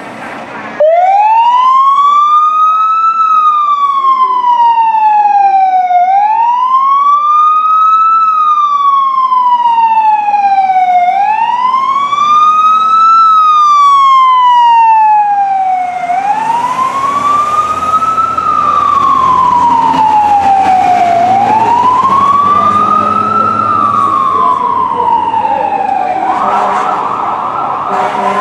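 Fire engine siren in wail mode, its pitch rising and falling slowly about every five seconds. The truck's engine rumble comes in about halfway through as the truck comes close.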